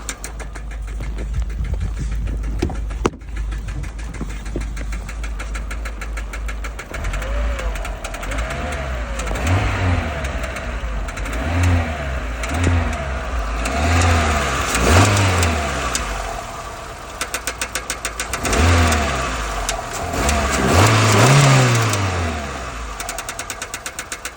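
Renault K7M 1.6-litre eight-valve petrol engine running with a rapid, even ticking knock from the rocker arms. From about seven seconds in, the revs are raised and dropped again several times, then the engine settles back to idle near the end, where the ticking is clear again.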